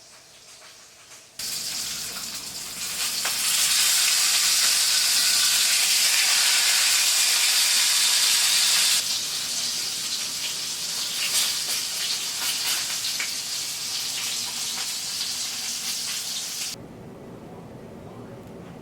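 Food sizzling in a hot frying pan: a dense hiss with scattered pops and crackles. It starts suddenly about a second and a half in, grows louder for a few seconds, eases somewhat, then cuts off abruptly near the end.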